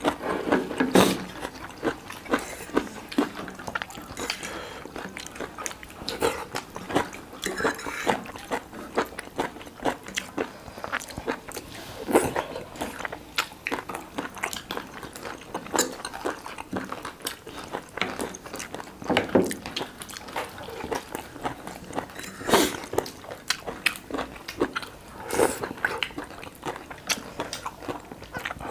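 Close-miked mukbang eating: chewing and biting food, with many irregular short smacks and clicks.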